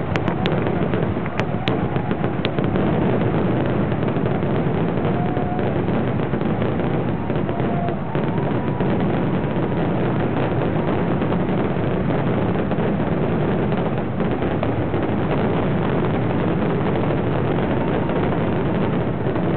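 Fireworks display in a dense, continuous barrage: shell bursts, bangs and crackle overlapping without a break.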